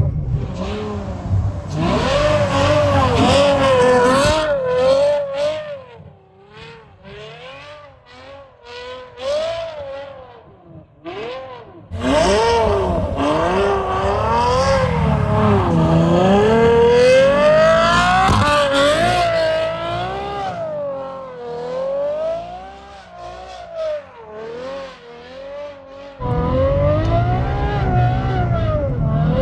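Ferrari F12's V12 engine revving up and down repeatedly while the car is driven on a snowy road, with stretches where it drops back off the throttle before picking up again.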